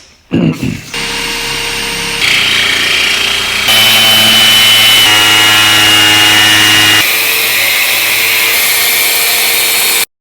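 Angle grinder cutting large-format porcelain tile: a loud, steady grinding with a high ringing whine, starting about a second in, its tone jumping abruptly several times and cutting off suddenly near the end.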